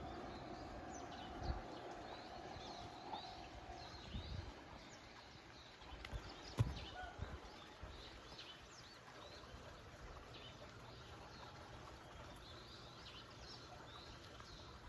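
Small birds chirping faintly and repeatedly, with a steady hum that stops about four seconds in, a few soft low knocks, and one sharp click about six and a half seconds in.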